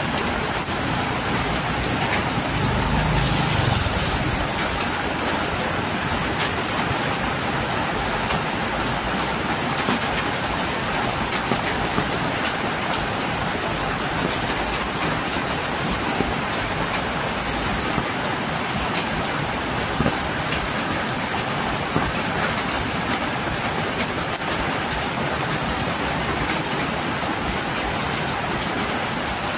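Heavy rain pouring down steadily, streaming off a roof edge and splashing on leaves and a wet road. A brief low rumble swells about three seconds in.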